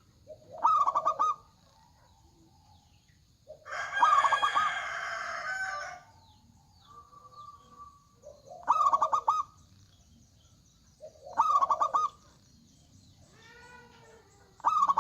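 Zebra dove (perkutut) cooing in short, rapid pulsed phrases near 1 kHz, four times, each under a second. Around four seconds in a longer, louder and rougher call of about two and a half seconds stands out.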